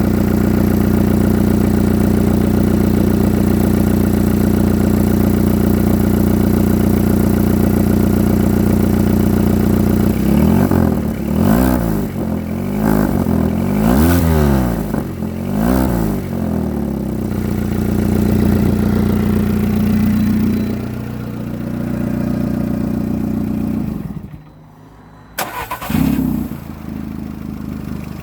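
Car engine with an exhaust leak, idling steadily, then revved in about five quick blips before settling back to idle. Near the end it drops almost to quiet for about a second, then picks up again with a short burst.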